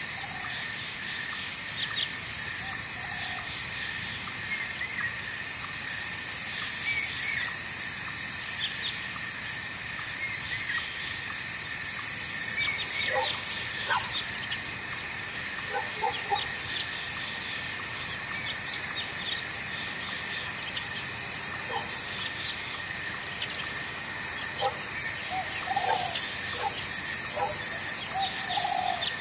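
Night forest ambience: insects trill steadily, with a very high buzzing that swells and fades every few seconds, while frogs and birds give short scattered calls throughout.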